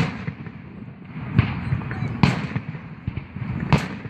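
Fireworks going off: four sharp bangs at irregular intervals of roughly one to one and a half seconds, over a continuous low rumble of more distant bursts.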